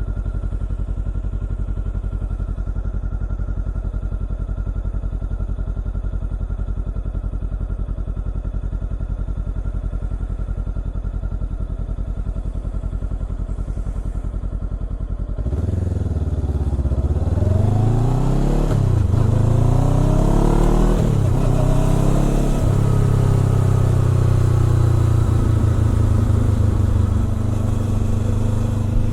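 Honda CBR400R's parallel-twin engine through a Trick Star Ikazuchi exhaust, idling steadily. About halfway through it revs up, its pitch climbing and dropping twice, then holds a steady, higher, louder note.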